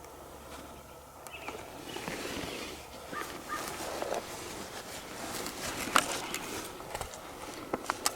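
Rustling and handling noise with a few sharp clicks and knocks, the loudest about six seconds in and several more near the end, over a few faint songbird chirps.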